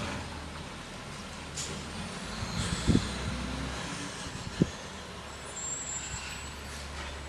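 Garbage truck engine running steadily at a low rumble, with a short hiss of air about one and a half seconds in and two sharp clanks, about three and four and a half seconds in.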